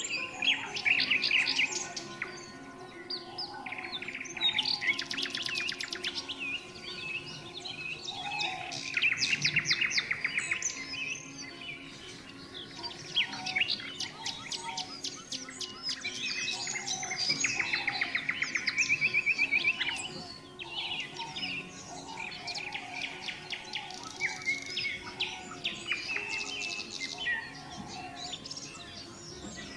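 Several songbirds singing at once: overlapping chirps, whistles and rapid trills, with loud trilled phrases coming every few seconds.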